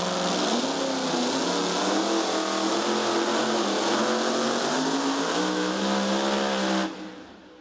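Supercharged Hemi engine of a super modified two-wheel-drive pulling truck running hard at high revs under load, its pitch wavering up and down. The sound drops away abruptly near the end.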